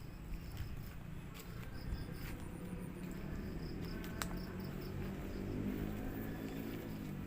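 Crickets chirping in a steady rhythm of short high pulses, over a low wavering hum that grows a little louder in the second half.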